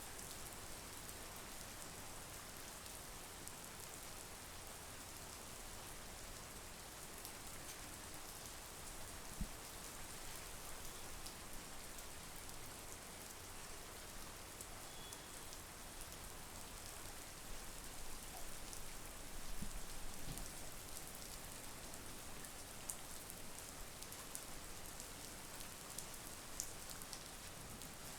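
Steady monsoon rain falling, an even hiss, with a few louder single drop hits close by, one around nine seconds in and a small cluster around twenty seconds.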